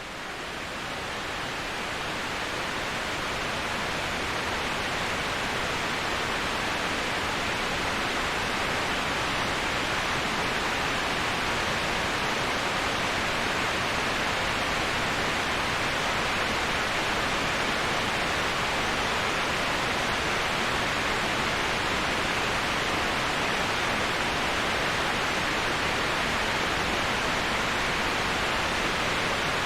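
Waterfall: an even, unbroken rush of falling water that swells up over the first few seconds and then holds steady.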